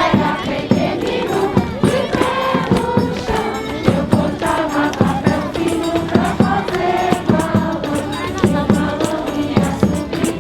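A group of voices singing together, with percussion beating along throughout.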